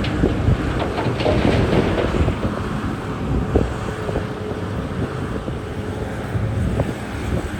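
Heavy diesel mining machinery running steadily, with knocks and clatter during the first two seconds or so, and wind on the microphone.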